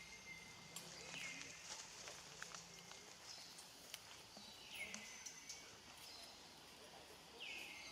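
An animal's short high call that drops in pitch and then holds, repeated three times at intervals of about three seconds, with scattered light clicks and faint outdoor background.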